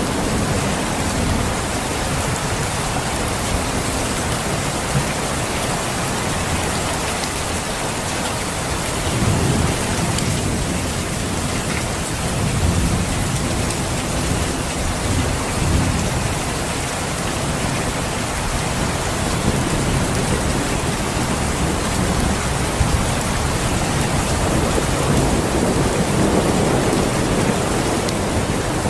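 Steady rain falling in a dense hiss, with low rumbles swelling up and fading away several times.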